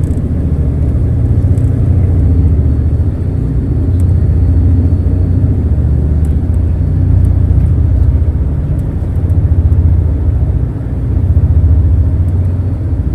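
A passenger ferry's engines droning at cruising speed: a steady, loud low rumble that swells and eases slightly.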